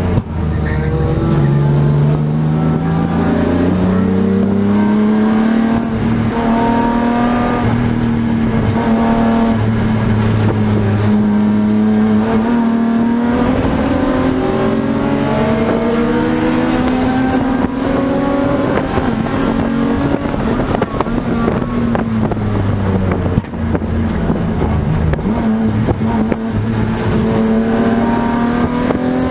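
BMW E36 M3 race car's straight-six engine, heard from inside the cabin, running hard at high revs. Its pitch climbs over the first few seconds, then holds and dips several times.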